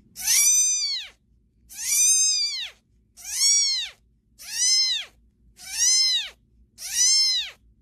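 A cat meowing over and over: six evenly spaced, drawn-out meows, each rising then falling in pitch.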